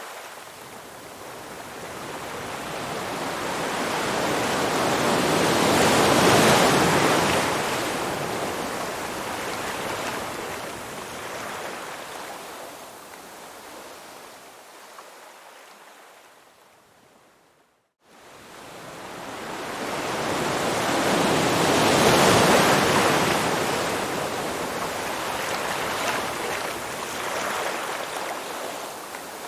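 Rushing water noise, like surf or a fast stream, that swells up and fades away twice, each surge lasting over ten seconds. It cuts out abruptly for a moment about two-thirds of the way through before building again.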